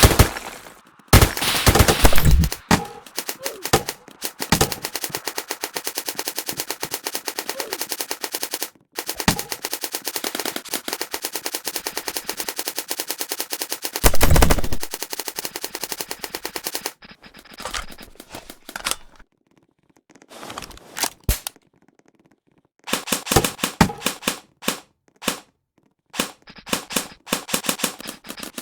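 Airsoft guns firing on full auto: long strings of rapid, evenly spaced shots, with two louder close bursts and shorter, choppier bursts near the end.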